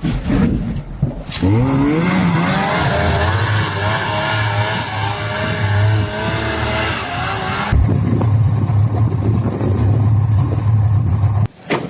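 A motor vehicle's engine revs up about a second in and is held at high revs with the pitch wavering. Near the middle it drops back to a steady, lower running sound, which cuts off shortly before the end.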